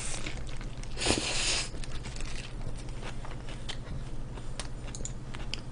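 Someone eating: small wet mouth clicks and chewing noises, with a short breath-like hiss about a second in, over a low steady hum.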